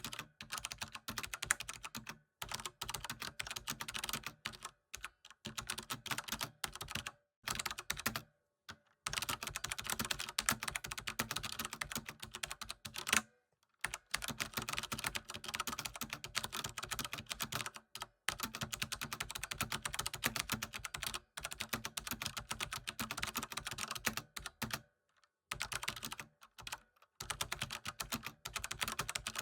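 Typing on a computer keyboard: rapid, continuous key clicks in runs of a few seconds, broken by a dozen or so brief pauses.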